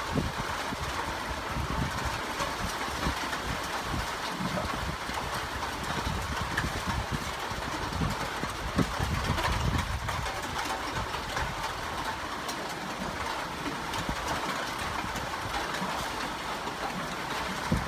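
Steady hiss of rain falling, with irregular low rumbles underneath.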